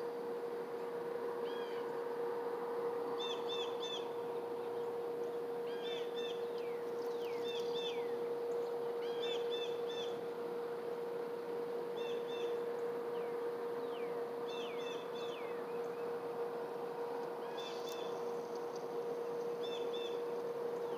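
Small birds calling in repeated short phrases of quick high chirps, with a few falling whistles, every second or two. Under them runs a steady hum and a continuous hiss.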